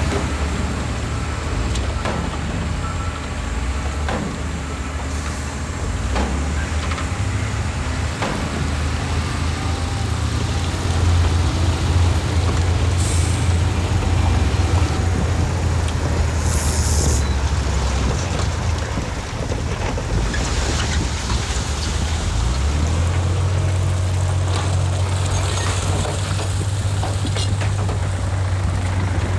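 Heavy diesel earthmoving machinery running steadily under load. The engine note swells about a third of the way in and shifts again later, with a few knocks early on and two short air hisses in the middle.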